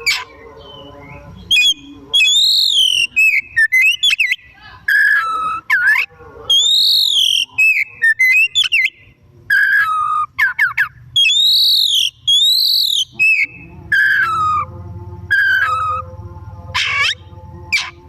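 Oriental magpie-robin (kacer) singing loudly and energetically: clear whistled phrases of notes that arch up and down, some long downward slurs, and a quick run of rising notes near the end, separated by short pauses.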